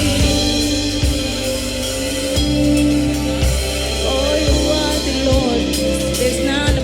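Gospel worship music: a band with bass, drums and sustained keyboard chords playing at a slow steady pulse, with a voice singing a line in the second half.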